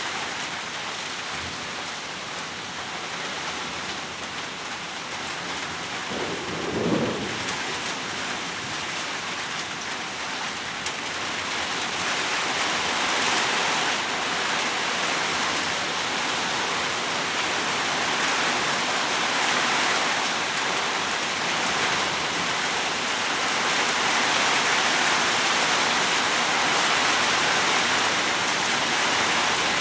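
Heavy rain pouring steadily during a storm, getting louder about twelve seconds in, with one short low thump about seven seconds in.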